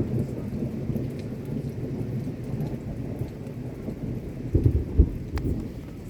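Thunder rumbling low and continuous through steady rain, swelling into a couple of louder booms about four and a half to five seconds in.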